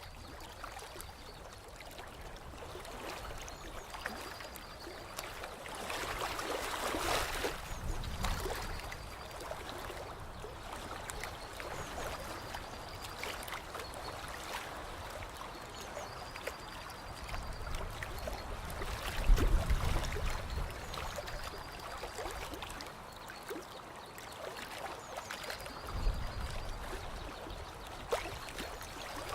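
Water trickling and lapping at a lake's edge, with a faint, high-pitched short call repeating about every four seconds. There are brief low rumbles twice in the second half, the louder one about two-thirds of the way through.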